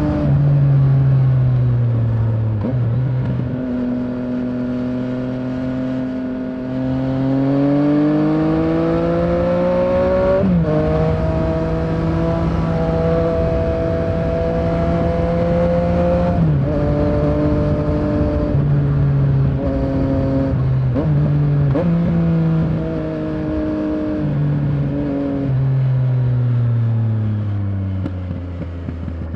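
Yamaha Tracer 900's three-cylinder engine under way, its pitch rising and falling with the throttle. There are several sudden pitch steps from gear changes and a long steady stretch in the middle, and the revs fall off near the end as the bike slows.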